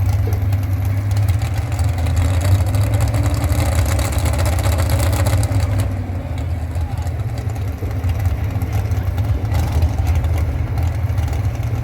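Pulling tractor's engine running loud and steady, with a deep drone underneath.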